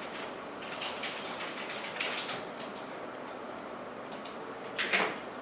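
Computer keyboard typing and clicking, irregular and sparse, with one louder click near the end.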